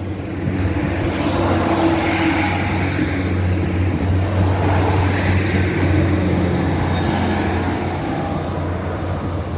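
Northern Ireland Railways 3000-class diesel multiple unit passing, its engine hum and wheel rumble swelling about a second in and staying loud, easing a little near the end.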